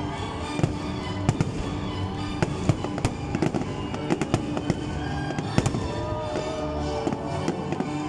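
Aerial firework shells bursting in quick succession: a dense run of bangs and crackles, some louder than others, over music with held notes.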